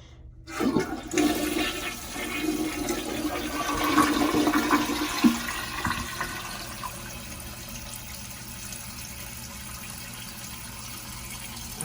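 Toilet flushing with its newly fitted flush lever, as a test of the lever: a loud rush of water for about five seconds, then fading into the steady hiss of the tank refilling.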